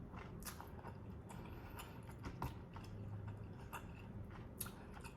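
A person chewing tteokbokki rice cakes close to the microphone: faint, irregular wet mouth clicks and smacks spread through the chewing.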